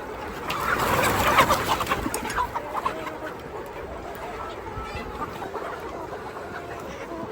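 A flock of domestic chickens clucking, with a louder flurry of scratchy, jumbled noise from about half a second to two seconds in, then scattered clucks.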